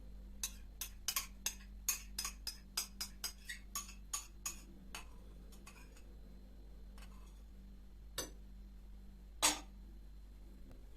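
A quick, uneven run of light clicks and taps, about three or four a second for several seconds, then a few single clicks, one louder knock near the end.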